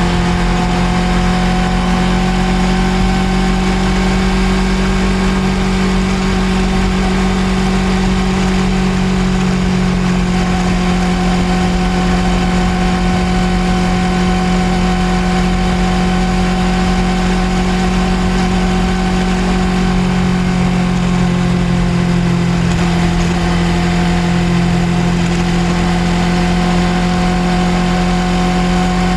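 Suzuki GSX250R's parallel-twin engine running steadily under way, its pitch holding nearly even throughout.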